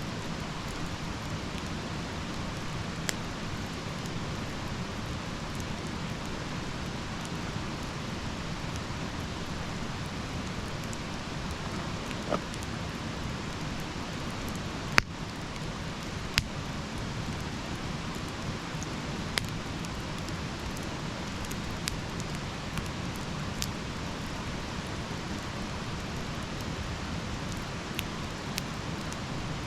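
Wood fire burning with a steady hiss, and every few seconds a sharp crackling pop from the wood; the loudest pop comes about halfway through.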